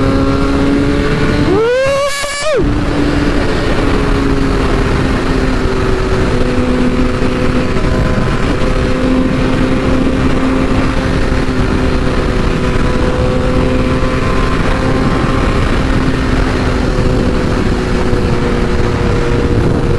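BMW S1000RR inline-four engine running at a steady road speed under constant wind noise on the microphone, with one sharp rev that rises quickly and cuts off about two seconds in.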